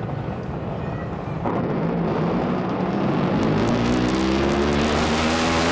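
Drag boat racing engine at full power, getting suddenly louder about a second and a half in, then its note climbing steadily in pitch as the boat accelerates.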